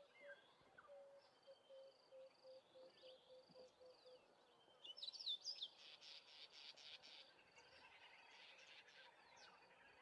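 Faint birdsong: scattered high chirps and whistles, with a short louder flurry of twittering about five seconds in.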